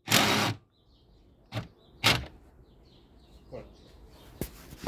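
A power tool running in short bursts on Torx screws: one about half a second long at the start, two brief ones a little over a second later, and a faint one after that.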